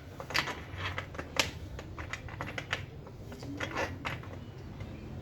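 Irregular light clicks and taps of metal tools and bicycle parts being handled, the sharpest about a second and a half in, over a steady low hum.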